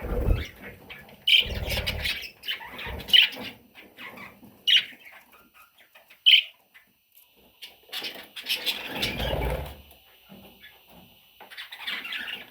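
Budgerigar chicks calling in short, sharp chirps and squawks, with bouts of scuffling and rustling movement among them.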